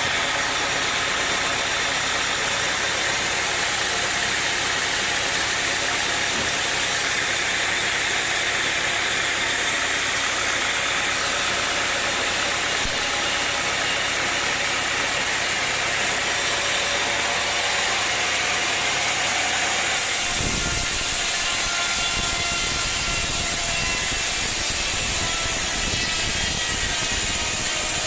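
Sawmill machine's engine running steadily. About twenty seconds in, its sound turns deeper and rougher.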